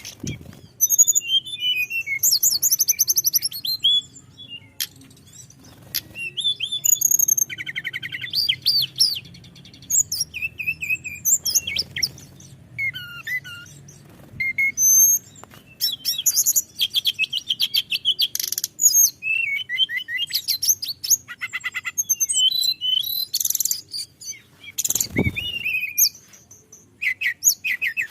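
Tledekan gunung singing in a long, varied run of high whistled and trilled phrases with short pauses between them, over a faint low background hum.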